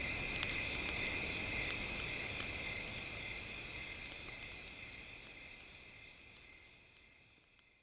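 Campfire crackling with sharp, scattered snaps over a steady high chirring of crickets, the whole mix fading out toward the end.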